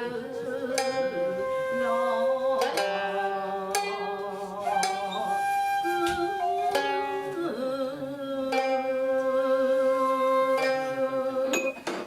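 Traditional Japanese ensemble music of the sankyoku style: plucked strings strike notes while a shakuhachi bamboo flute holds long wavering tones over them.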